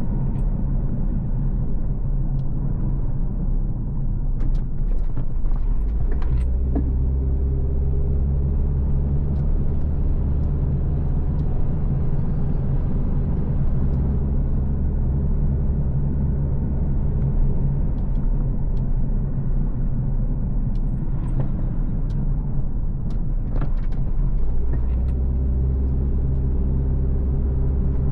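A car driving on a road: steady low engine and tyre rumble whose engine tone shifts about six seconds in and again near the end, with a few light clicks.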